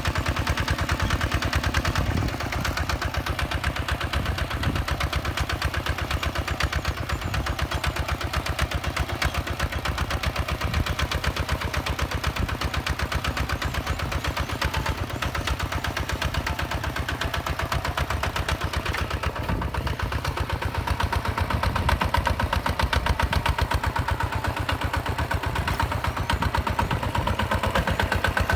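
Hinota HG Gold 155 DI tractor's direct-injection diesel engine running steadily, with a rapid, even chugging from its firing pulses.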